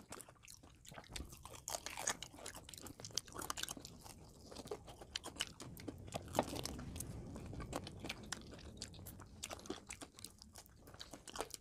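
Close-up crunching and chewing of crispy-coated fried chicken drumsticks, a steady run of small irregular crackles and bites.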